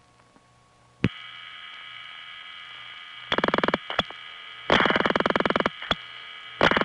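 Audible dial pulsing on a long-distance phone line: the Chicago 2 4M toll switch pulsing digits into the Crete, Illinois step-by-step office over a local-type trunk. About a second in, a click opens a steady line hum and hiss. Then three bursts of rapid clicking come, each half a second to a second long, with single clicks between them.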